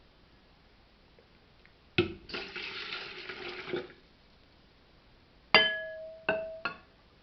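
Water runs briefly into an electric kettle for about two seconds, starting with a knock. Near the end come three sharp, ringing clinks.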